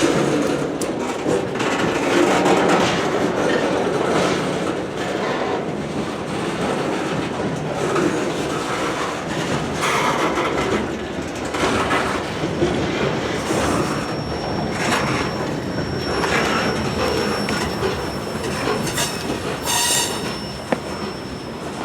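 Freight cars of a passing freight train rolling by, wheels clacking over the rail joints, with a thin high wheel squeal coming in about two-thirds of the way through.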